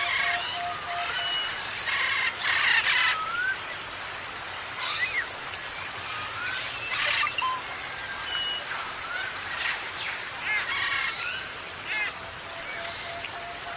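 Several birds calling together: whistled chirps and gliding notes, a few short harsh squawks, and a lower rapidly repeated note near the start and again near the end, over a steady background hiss.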